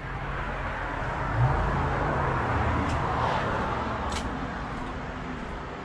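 A vehicle passing on the road, its noise swelling to a peak a couple of seconds in and then fading away, over a steady low engine hum.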